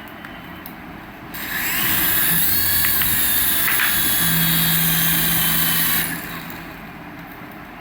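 A radio-control toy's small electric motor whirring: it spins up with a rising whine about a second in, runs steadily at high pitch, and cuts back near the end.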